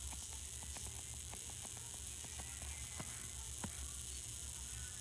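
Faint steady low hum with a high hiss and scattered faint crackling clicks, like electrical static.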